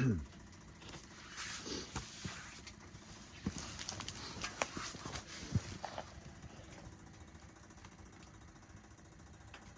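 A sharp falling scrape at the very start, then scattered light knocks and clicks for several seconds, fading to a low steady hiss.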